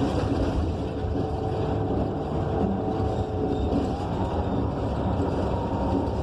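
Cabin sound of a 2015 Gillig BRT Plus transit bus under way: the steady rumble of its Cummins Westport ISL G natural-gas engine and Allison B300R transmission, with a thin whine that rises a little in pitch about four seconds in.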